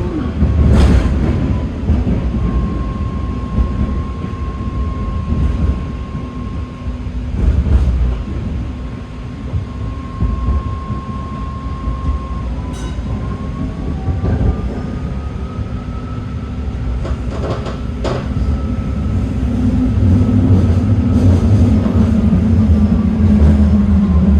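BART train running on the rails: a steady low rumble with a thin high whine that holds level for a few seconds at a time, then slowly rises and falls, and a few sharp clacks from the wheels. The rumble grows louder near the end.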